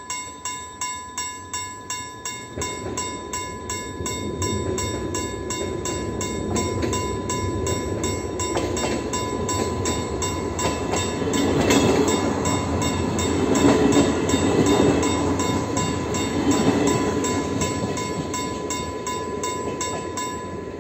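Level crossing warning bell ringing at about two and a half strokes a second while a VR passenger train passes, its wheel and rail noise building, loudest midway, then fading. The bell cuts off near the end.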